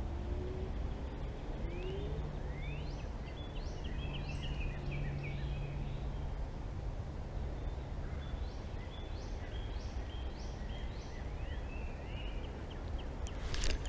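A songbird singing two phrases of quick, rising, chirping notes over a steady low rush of outdoor noise, with a few sharp clicks near the end.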